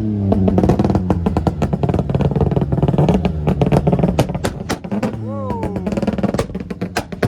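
Music with a heavy drum beat playing from a car's boot sound system, with a car engine revving over it, the revs dropping about five seconds in.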